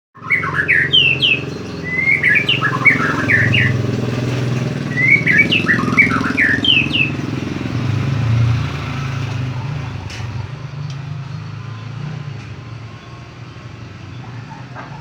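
White-rumped shama singing in three short bursts of quick, rising whistled notes over the first seven seconds, then falling silent. Beneath it, a motor vehicle's engine runs with a wavering pitch and fades away over the second half.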